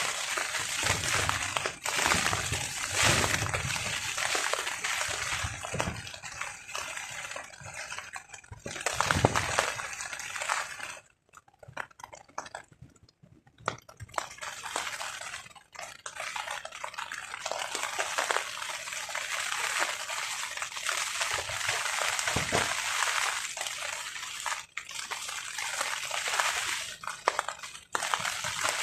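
Rain falling on a tarp, driven by strong gusting wind that rumbles in swells during the first ten seconds. The rain and wind die down almost completely for a couple of seconds about halfway through, then pick up again.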